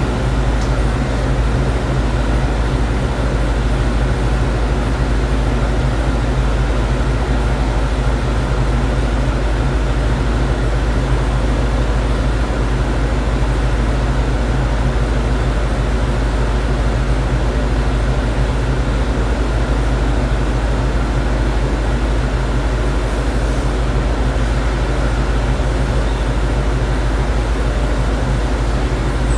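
Ford 460 big-block V8 with Edelbrock Pro-Flow 4 electronic fuel injection running on an engine dyno, holding a steady speed with no revving.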